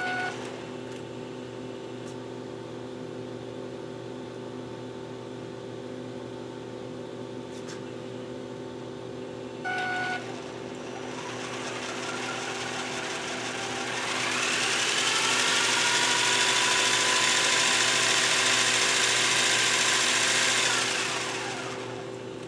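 Traxxas XO-1 RC car's electric motor and drivetrain spinning up under throttle, with a rising whine that holds for about seven seconds and then winds down near the end. A short beep sounds at the start and again about ten seconds in.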